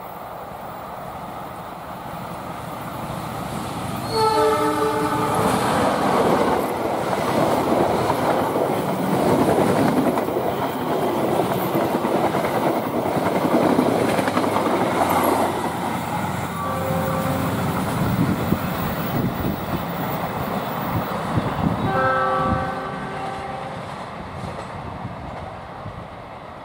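Diesel locomotive horn sounds a chord as a passenger train approaches, then the train passes close by, loud, with a rumble and the clatter of wheels over rail joints. The horn sounds twice more later, and the train noise fades near the end.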